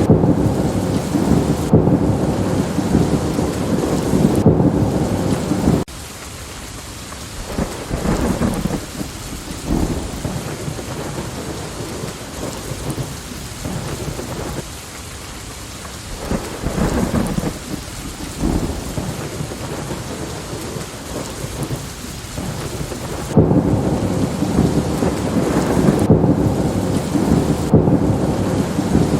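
Steady rain with thunder rumbling and crackling. A loud, deep rumble cuts off suddenly about six seconds in, leaving quieter rain with a few low rolls of thunder. The heavy rumble comes back abruptly about 23 seconds in.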